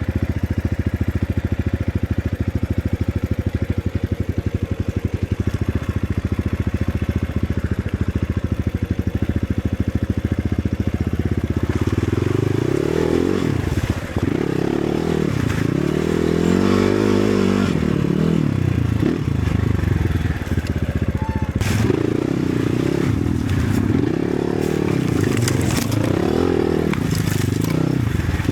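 Enduro motorcycle engine running at low, even revs, then from about twelve seconds in revving up and down again and again as the throttle is worked. Sharp knocks and scrapes come in near the end.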